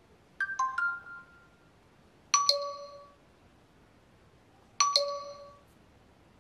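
Xiaomi POCO M3 smartphone playing notification tones as they are previewed. First comes a quick three-note chime. Then a two-note high-then-low ding-dong chime plays twice, a couple of seconds apart.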